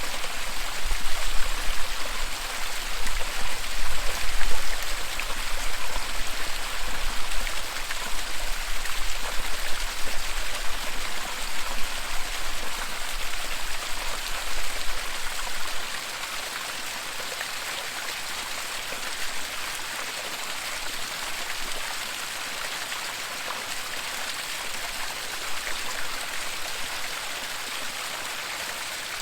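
Waterfall rushing in a steady, even hiss. A deep low rumble under it for the first half stops a little past halfway, leaving the water noise alone and quieter.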